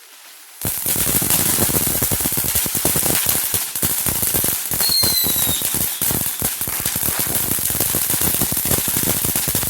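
A string of firecrackers going off in a rapid, continuous crackle of pops, starting about half a second in, with a brief falling whistle about halfway through.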